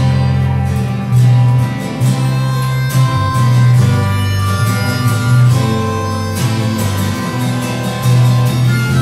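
Live acoustic band playing an instrumental passage without singing: guitar with a steady bass line and sustained melody notes.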